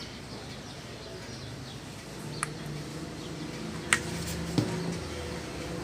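A few light clicks and taps from handling a motorcycle's cam chain tensioner while oil is pressed into it, three of them sharp, over a low steady background hum.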